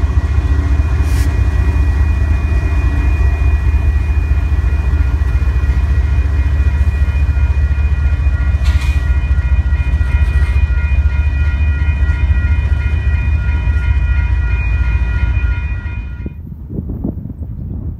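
Freight train rolling through a grade crossing: a steady low rumble of locomotive and wheels on rail, with the crossing bell ringing over it in several steady pulsing tones. About 16 seconds in it all cuts off suddenly, leaving wind on the microphone.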